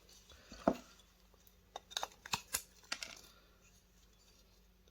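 A handful of light, sharp clinks and clicks of small metal parts and broken plastic pieces being handled and set down, spread over about two seconds.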